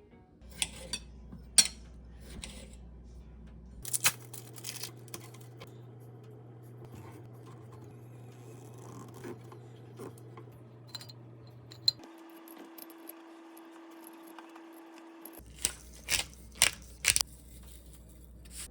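Scattered sharp clicks and light knocks of objects being handled over a low steady hum, in a few short clusters, with the hum changing at cuts.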